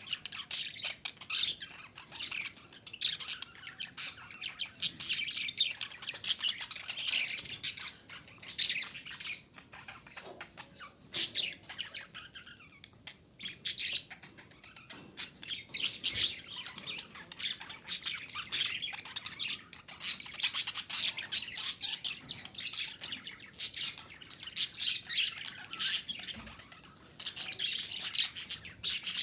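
Budgerigars chattering and chirping, with a rapid, continuous warble of short high chirps and occasional squawks; the title gives the birds as female.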